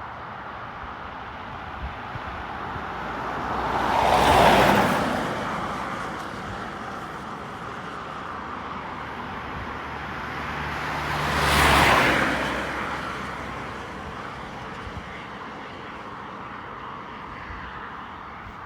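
Two road vehicles drive past close by, one after the other, each swelling and fading over a few seconds, about seven seconds apart, over a steady background rumble.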